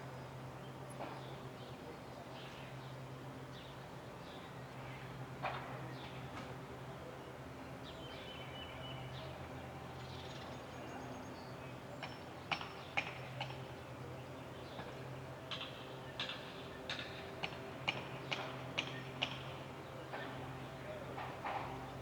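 Small birds at a birdhouse giving brief high chirps, with a run of short sharp sounds at about two a second in the second half, over a steady low hum.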